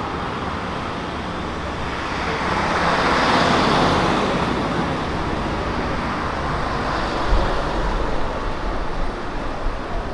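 Road traffic on a city street: a vehicle passes with a swell of tyre and engine noise, loudest about three to four seconds in, and another passes with a low rumble around seven seconds in.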